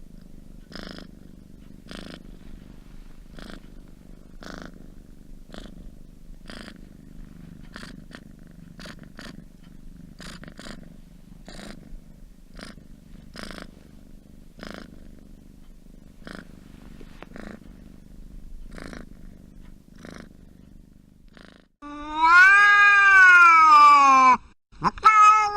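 Domestic cat purring steadily, a soft pulse about once a second with each breath. About 22 seconds in, a much louder, long meow rises then falls in pitch, and a second meow starts just before the end.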